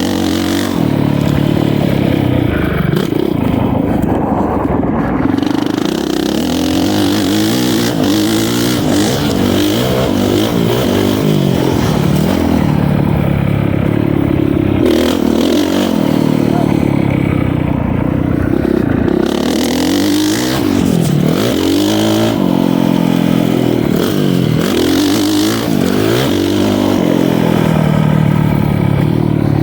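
Motocross dirt bike engine on the track, revving hard and backing off over and over, its pitch rising and falling with each burst of throttle and gear change.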